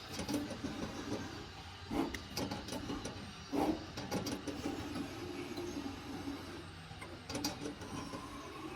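CNC knife cutting machine running, a steady mechanical noise broken by irregular knocks and clicks.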